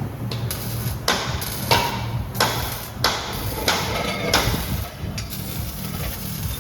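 A series of sharp knocks, about six in three and a half seconds, over a steady low hum.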